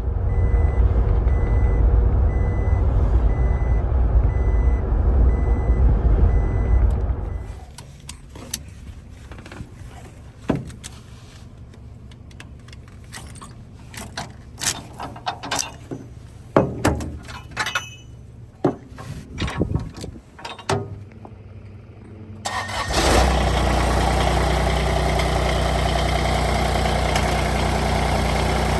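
A vehicle engine running that stops suddenly, followed by a scatter of sharp metallic clanks and knocks, then an engine starting up and running steadily.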